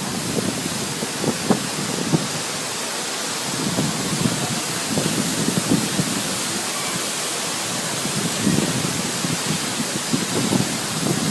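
Waterfall: a steady rush of falling water, with uneven low rumbling swells throughout.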